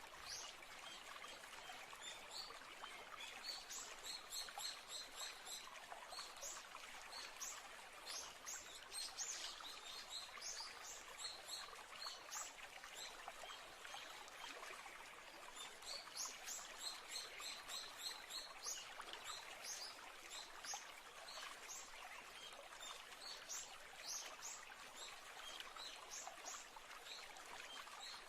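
Birds chirping in quick runs of short, high notes over a steady rush of flowing water, like a stream, all faint.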